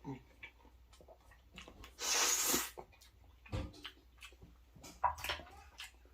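Close-miked eating sounds from a mouthful of Alfredo pasta: scattered wet mouth clicks and chewing, with one louder noisy sound lasting about half a second, two seconds in.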